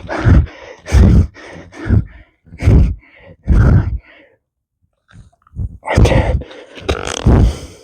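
A man grunting and breathing out hard with each push-up, about one effort a second, with a short pause just past the middle before two more.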